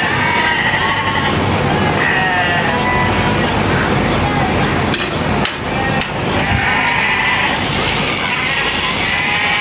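Sheep bleating again and again, several wavering calls overlapping, over a steady background din.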